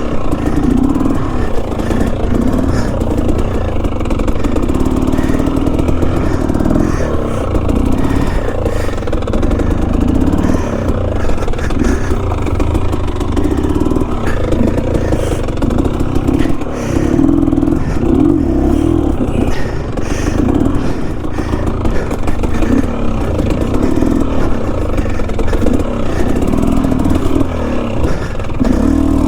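Enduro dirt bike engine running continuously, its pitch and level rising and falling with the throttle, with clattering from the bike over rough ground.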